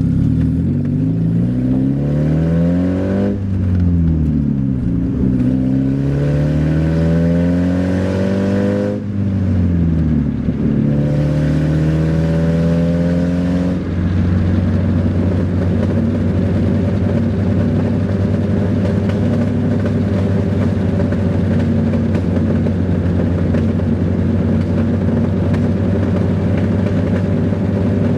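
1993 Saturn SW2's 1.9-litre twin-cam four-cylinder running with its exhaust open at the bare manifold. The revs rise and fall several times, then hold steady from about halfway.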